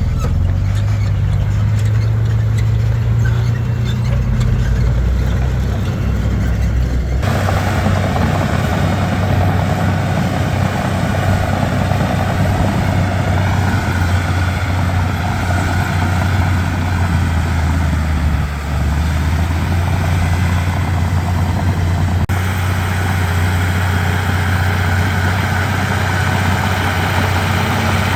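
Komatsu D31P bulldozer's diesel engine running steadily with a deep hum. The sound changes abruptly about 7 seconds in and again about 22 seconds in.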